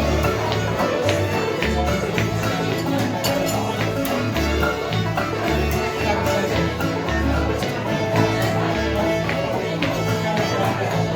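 Old-time stringband playing a fiddle-and-banjo tune: two fiddles carrying the melody over clawhammer banjo, backup guitar and upright bass holding long low notes.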